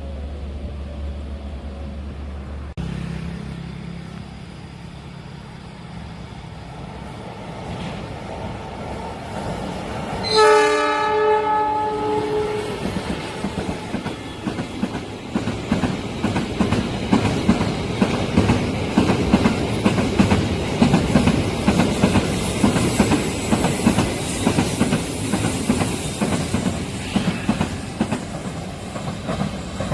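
A train locomotive's horn sounds one blast of about two seconds, then the train passes close by, its wheels clattering over the rails in a fast, steady rhythm. Before the horn, a steady low hum stops abruptly about three seconds in.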